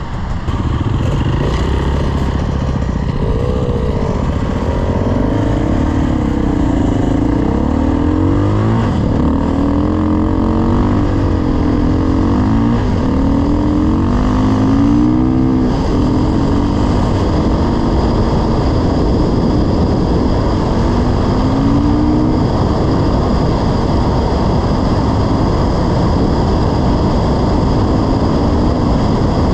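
Dirt bike engine running under load, its pitch rising and falling repeatedly with throttle and gear changes, then holding steadier in the second half, over a continuous low rumble.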